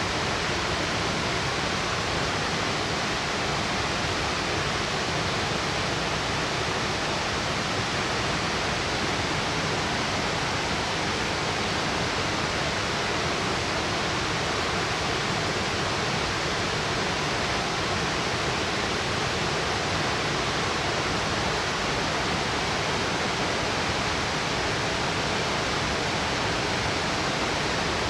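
Steady roar of a tall plunge waterfall, water falling about 60 metres onto rock, an even rushing noise with no change in level.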